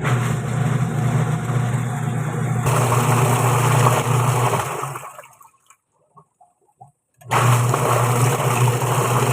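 Haier single-tub washing machine's motor and newly fitted gearbox running, a steady loud hum with a rushing noise. It runs down about five seconds in, pauses with a few faint clicks, and starts again abruptly near the end, the stop-and-restart pattern of a wash cycle.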